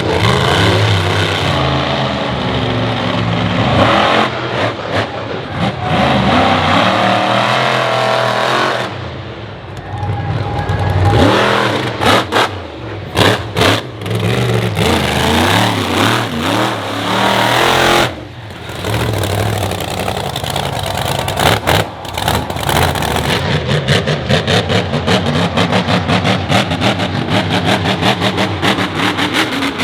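Monster truck engines revving hard and running at full throttle, the pitch climbing and falling, with the sound cutting in and out sharply several times in the middle.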